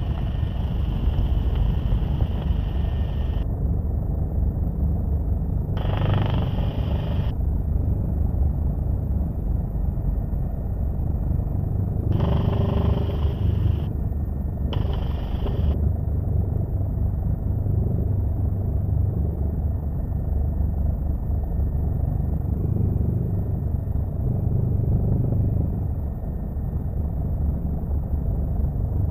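Helicopter cabin noise: a steady low drone of engine and rotor. A band of hiss cuts in and out abruptly four times.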